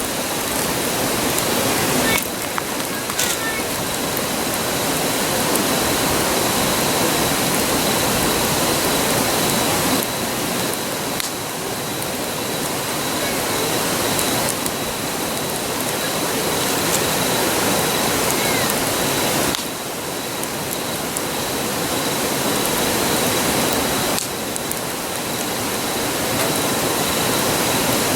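Steady rushing of a nearby river, with a few small crackles from a campfire on top, one clearer snap about three seconds in.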